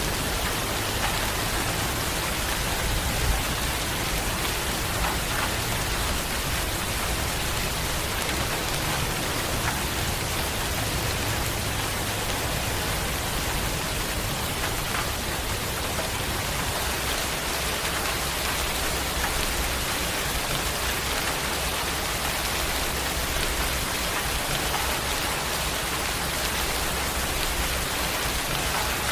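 Steady heavy rain falling, an even hiss with scattered individual drops standing out now and then.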